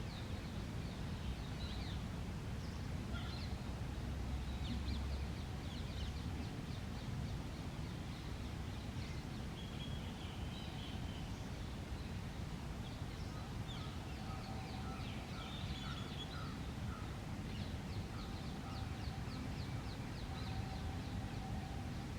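Many short bird chirps and calls, scattered throughout and thicker in the second half, with a run of repeated notes partway through, over a steady low rumble of outdoor background noise.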